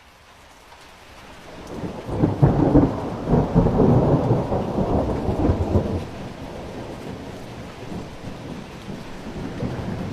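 Thunder rumbling in a typhoon storm over steady rain: the rumble builds over about a second, is loudest for several seconds, then fades to a lower, continuing rumble.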